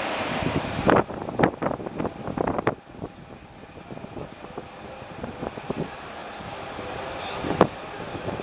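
Strong gusty wind buffeting the microphone in irregular loud thumps, with a calmer stretch in the middle. A steady hum underneath drops away about a second in.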